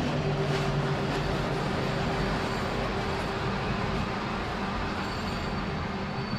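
Electric train of the Flåm Line running along the track: a steady rumble of wheels on rails with a faint steady hum, easing slightly near the end.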